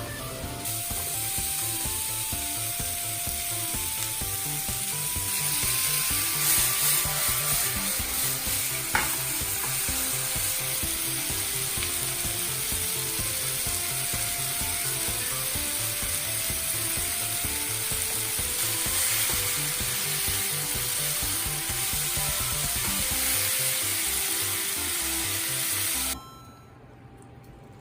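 Food frying in hot oil in a pan, a steady sizzle that stops suddenly near the end, with light background music playing throughout.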